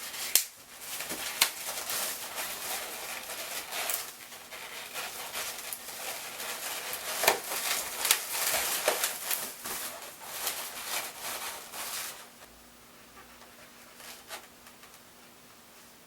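Latex modelling balloons rubbing and squeaking as they are twisted together, a run of short scratchy rubs that stops about twelve seconds in.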